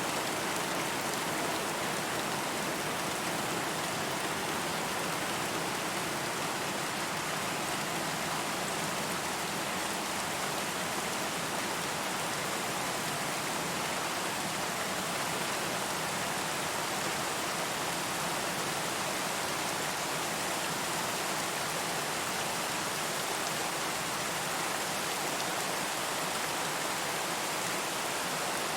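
Steady, even rainfall: a dense continuous patter of rain with no thunder or other events.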